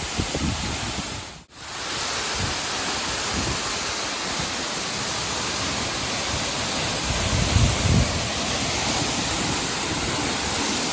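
Waterfall rushing close by as a steady, even wash of falling water, with some low rumble underneath. It cuts out for an instant about one and a half seconds in.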